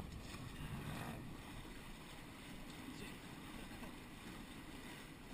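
Steady rush of wind and water aboard a small sailing catamaran under way, with wind buffeting the microphone.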